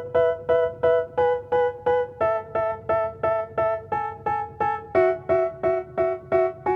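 Music: a piano playing the same chord in even repeated strikes, about three a second, moving to a new chord every couple of seconds, as the intro to a rap track.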